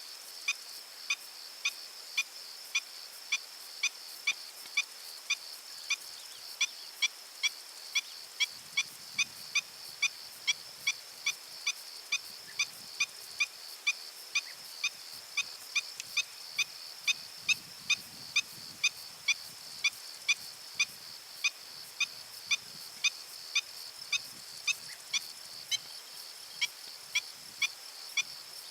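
An animal repeating a short, pitched call note evenly, about twice a second, over a steady high insect buzz.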